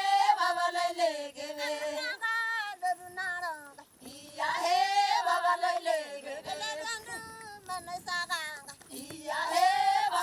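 Children's voices singing a song together, in phrases of held, wavering notes separated by short breaks.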